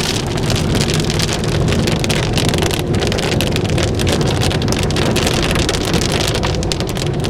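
Heavy rain from a cloudburst pelting a moving car, countless drops ticking on the windshield and roof over steady tyre and road rumble, heard from inside the car.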